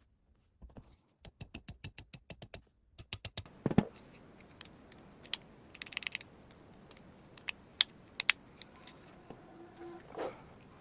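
A quick run of small, sharp clicks, about eight a second, from hard parts being worked by hand. A louder knock follows, then scattered single clicks and taps as rifle parts are handled during assembly.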